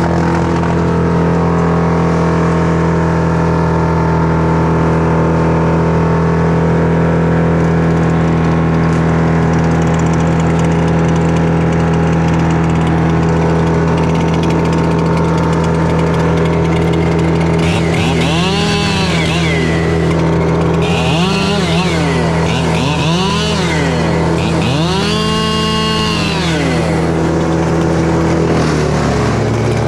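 An engine running steadily throughout. In the second half a chainsaw revs up and falls back four times, each rev lasting about a second.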